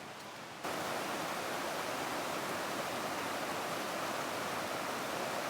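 Steady rush of flowing river water, a hard cut about half a second in bringing it suddenly louder.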